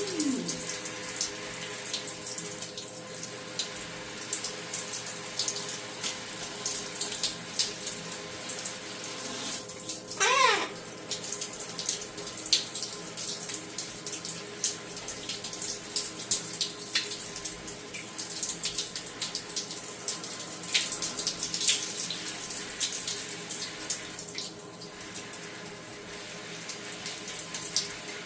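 Tap water running steadily with irregular splashing and spattering as a Hahn's macaw bathes in it. A single short pitched call, likely the bird, comes about ten seconds in.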